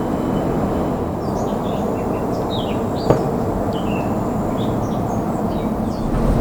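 A small bird chirps repeatedly over a steady low rumble from a jet airliner's engines, with a single sharp click about three seconds in.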